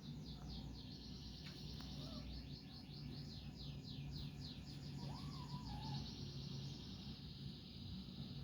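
Rapid, high-pitched chirping repeated about four to five times a second over a steady high hum, with one short, faint call about five seconds in.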